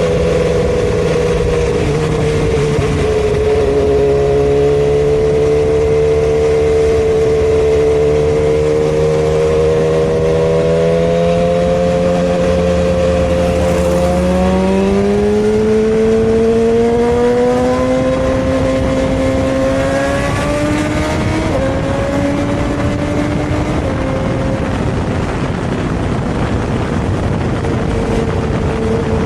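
Superbike engine running at cruising speed with rushing noise underneath. Its pitch sags a little early on, then climbs gradually from about halfway through as the bike picks up speed, with a couple of small steps near the end.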